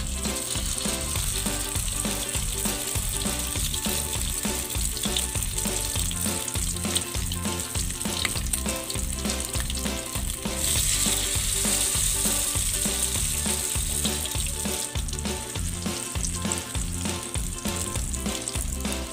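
Banana blossom torta batter frying in hot oil in a wok: a continuous sizzle that grows louder about ten seconds in and eases back a few seconds later.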